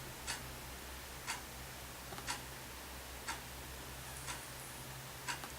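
Faint, sharp ticks at an even rate of about one a second, like a wall clock ticking, over a steady low hum.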